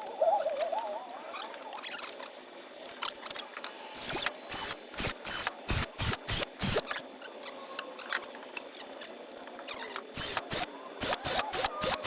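Hand tools working wood: runs of sharp knocks, about two a second, starting about four seconds in and again near the end, with a thin wavering squeak at the start.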